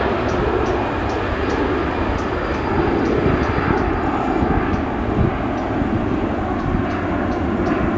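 Boeing 777-300 jet engines running at a steady level, a loud, even rush of noise from the airliner on its landing roll.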